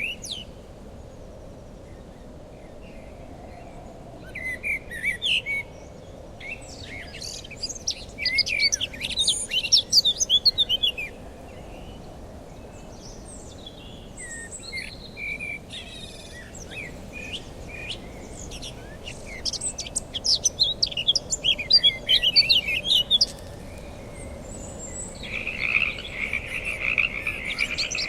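Birds singing in several bursts of quick high chirps over a steady low hiss. A steady buzzing trill starts near the end.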